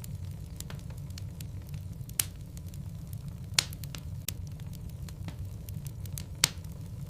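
Logs burning in a fireplace: a steady low rumble of the flames with scattered crackles and a few sharp pops.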